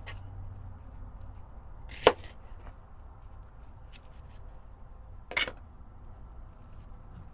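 Two sharp knocks about three seconds apart, the first the louder, over a faint steady low hum.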